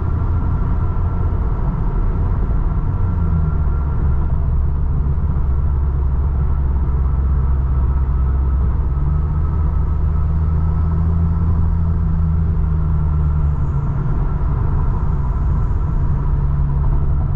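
2016 Lexus IS 200t's 2-litre turbocharged four-cylinder with an axle-back muffler-delete exhaust, droning steadily while the car is driven, with road noise. The engine note shifts slightly in pitch a few times, around three seconds in and again around nine and fourteen seconds.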